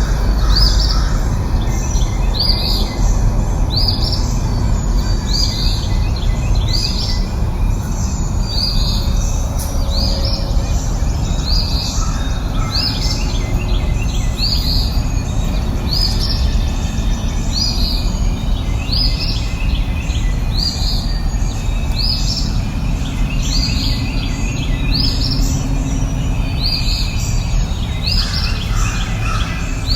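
A songbird repeating a short, high chirping call about every one and a half seconds, over a steady low rushing background.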